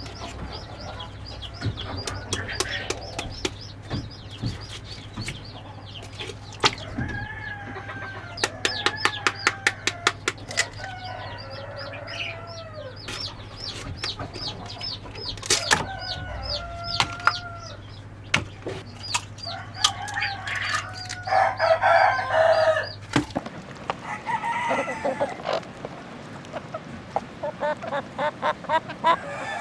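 Chickens calling: hens clucking and bending mid-pitched calls, over a constant stream of quick high-pitched chick peeps, several a second, with scattered sharp clicks. A low steady hum underneath cuts off about three quarters of the way through.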